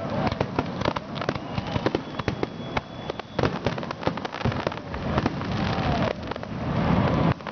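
Fireworks finale barrage: many rapid, overlapping bangs and crackles a second, with no let-up.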